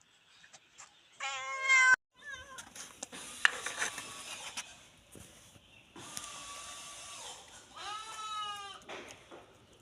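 Cats meowing several times. The loudest meow comes about a second in, a long, drawn-out one around six seconds, and another near eight seconds. There are clicks and scraping noises between the calls.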